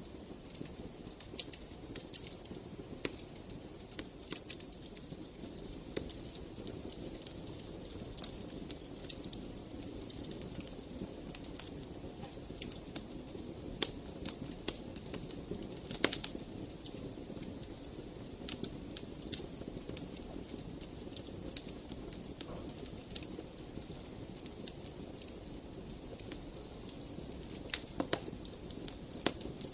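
Wood fire crackling: a steady low rustle of flames with frequent sharp, irregular pops, the loudest about halfway through and a cluster near the end.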